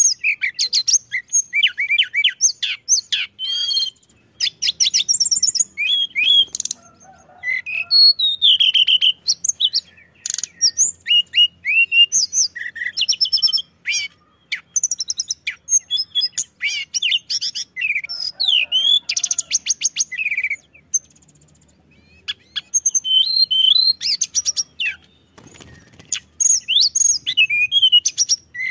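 Tledekan gunung (a Javanese songbird kept for its song) singing a long, fast, varied song of high chirps, rattling trills and short whistled glides, broken by brief pauses about three-quarters of the way through and again near the end.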